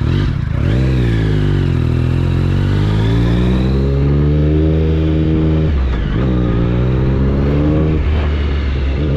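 Triumph Speed Triple 1050's inline three-cylinder engine, breathing through an SC-Project exhaust, pulling under throttle. Its note climbs steadily, drops sharply about six seconds in and climbs again, then dips once more near the end, like gear changes while accelerating.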